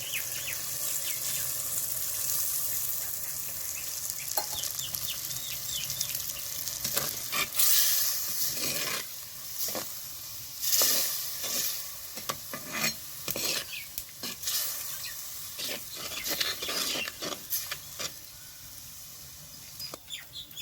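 Chicken sizzling steadily in a hot pan. From about seven seconds in, a spoon stirs and scrapes against the pan in a run of irregular strokes for about ten seconds.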